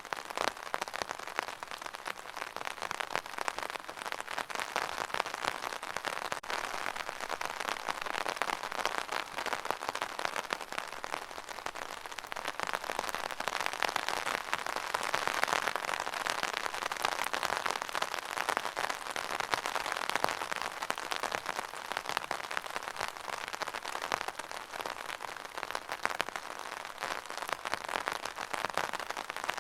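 Steady rain falling, a dense even patter of drops on a surface with no breaks or pauses.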